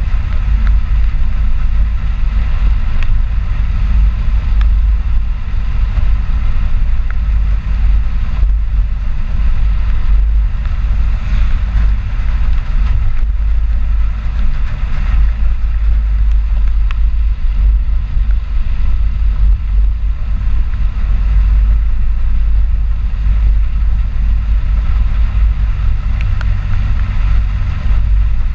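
Ford 4x4 pickup truck being driven: a steady low rumble of engine and road noise that holds without change.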